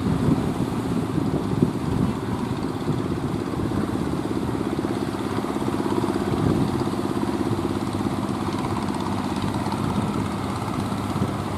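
A motor vessel's engine running steadily, a constant hum, with wind and sea noise in the background.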